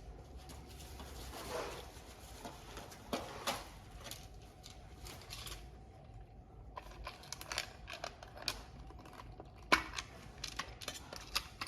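Light scattered clicks, taps and rustles of hands handling small tools and mouse parts, a few louder taps about three seconds in and near ten seconds.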